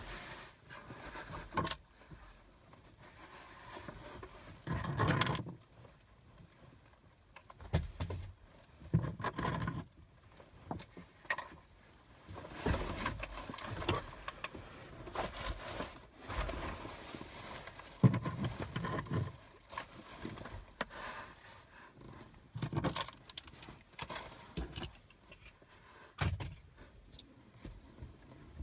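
Irregular rustling, clunks and knocks of objects being picked up and moved around inside a car's back seat area as it is cleared out, with one sharper knock about two-thirds of the way through.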